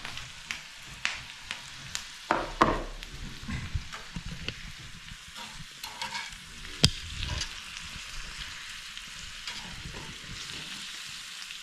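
Ribeye steaks searing in butter in a hot pan, sizzling steadily, with scattered clicks and knocks from a utensil; the sharpest knock comes about 7 seconds in.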